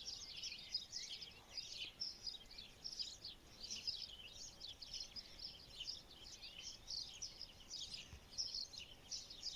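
A chorus of small songbirds chirping and twittering, many quick overlapping calls at once without a break.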